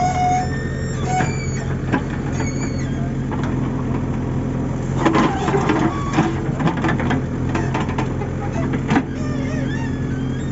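Heavy diesel engine running steadily, with a cluster of knocks and clanks about five to seven seconds in.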